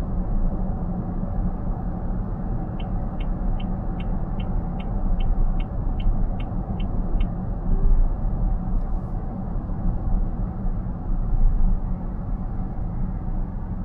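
Steady road and tyre rumble inside a car cabin at highway speed. Partway through come about a dozen short high ticks, a little over two a second, lasting about four seconds: the turn indicator, as the driver-assist moves the car over ahead of a bear-right.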